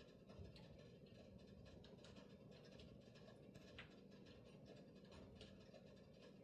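Near silence: faint room tone with a few soft scratches and ticks.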